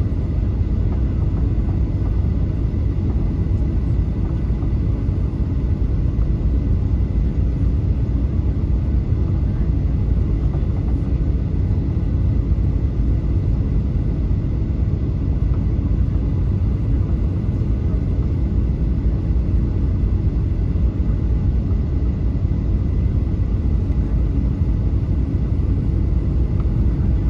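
Steady low drone of a Boeing 737-800 heard from inside the passenger cabin: the rumble of its CFM56-7B engines and cabin noise, with a few faint steady hums above it and no change in level.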